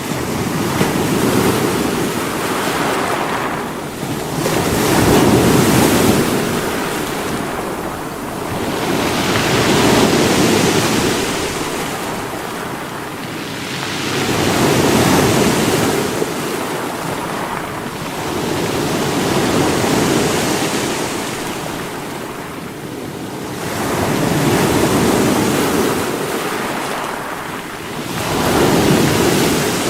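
Sea waves breaking against rocks: a continuous wash of surf that swells and ebbs about every four to five seconds.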